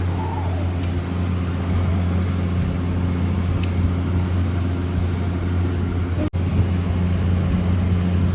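Steady low hum, with a brief cut-out about six seconds in.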